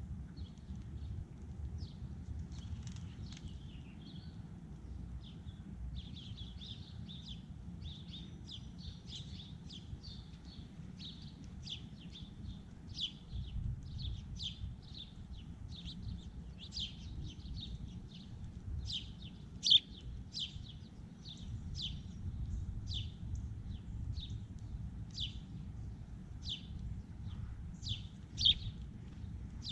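Small birds at a feeder chirping over and over, short high calls coming several times a second, a few louder than the rest, over a steady low rumble.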